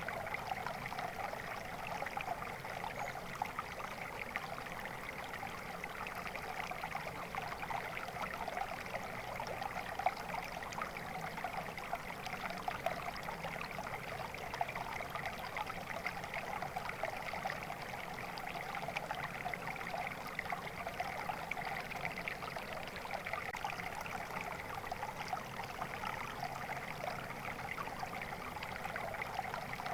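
Water flowing steadily in a stream, an even babbling rush with fine trickling splashes.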